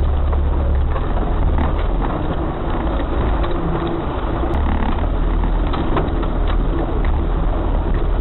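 Off-road 4x4 vehicle driving over a rough track: a steady, heavy low engine and drivetrain rumble, with frequent small knocks and rattles.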